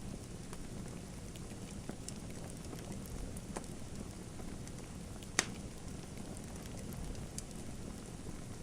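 Wood fire in a fireplace crackling: a steady low rumble of flame with scattered sharp pops, one louder pop about five and a half seconds in.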